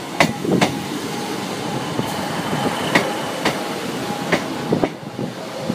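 Class 156 diesel multiple unit running along the track, its wheels giving a few sharp clicks over the rail joints at irregular intervals.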